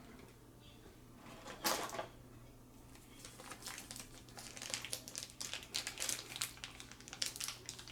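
Plastic packaging being handled: one short rustle, then a long run of small crinkles and clicks.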